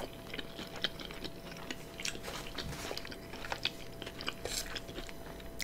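A person chewing a mouthful of Philly cheesesteak omelet close to the microphone: many small, irregular mouth clicks and smacks, with a faint steady hum underneath.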